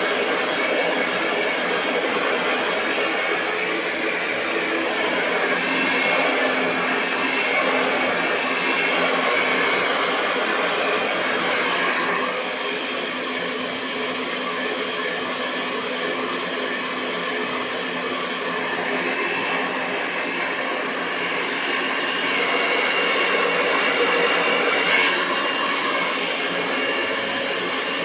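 Hair dryer running with a continuous rush of airflow and a steady motor whine. It dips slightly in loudness about twelve seconds in and comes back up later.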